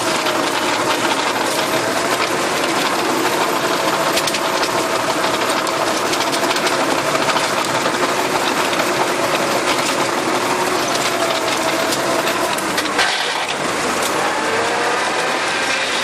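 Tractor engine running steadily with a rotary tiller working behind it, a continuous mechanical din with rattling. The sound dips briefly about three-quarters of the way through.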